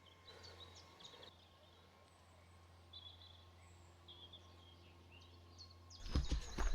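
Small birds chirping in short high phrases over a quiet woodland background, then close footsteps starting near the end, louder than the birdsong.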